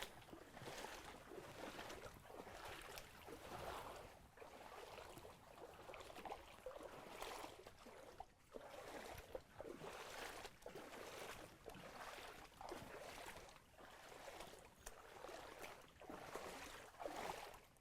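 Faint water splashing and sloshing in regular strokes, about one a second, like paddling or wading through shallow water.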